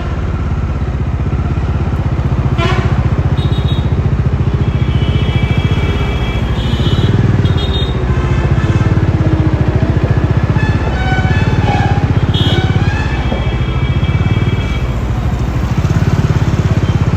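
Bajaj Dominar 400's single-cylinder engine running on the move, its exhaust note rising and falling with the throttle over wind and road noise. Vehicle horns sound from traffic a few times.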